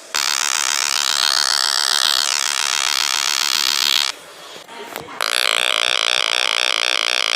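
Propeller plane engine sound effect: a loud, harsh buzzing drone. It cuts out about four seconds in and starts again, with a different pulsing pattern, about a second later.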